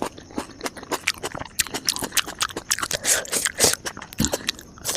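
Close-miked eating: a quick, irregular run of short crunching and chewing sounds.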